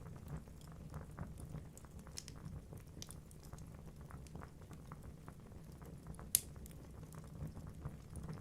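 Wood fire burning in a fireplace: a low steady rumble of flames with irregular crackles and snaps of the logs, one sharp pop about six seconds in.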